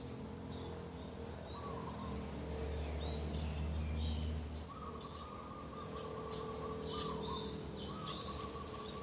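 Doves cooing in repeated rolling phrases, with the short high chirps of smaller birds over them. A low rumble runs through the first half.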